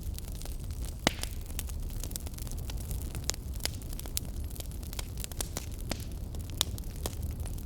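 Wood fire burning in a fireplace: a low steady rumble of flames with frequent irregular crackles and pops, a sharper pop about a second in.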